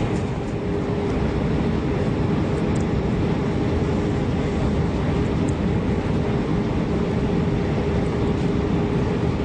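Jet airliner cabin noise: a steady rumble of the engines and air system with a constant hum, heard from inside the cabin.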